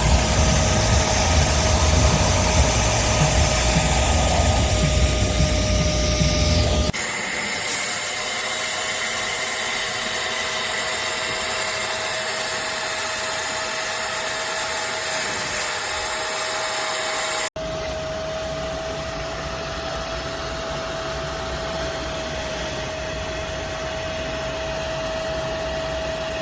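Hoover CleanSlate Plus portable spot cleaner's suction motor running steadily with a constant whine. The sound changes abruptly twice, about 7 seconds in and about two-thirds through, with a heavier rumble before the first change.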